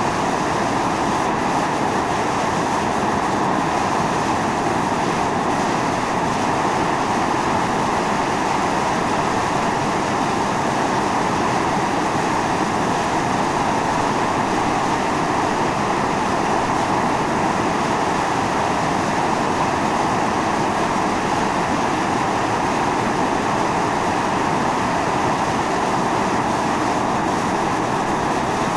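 Volcanic fumarole on Mt. Io (Atosanupuri) venting steam and gas under pressure: a steady, loud rushing hiss that does not let up.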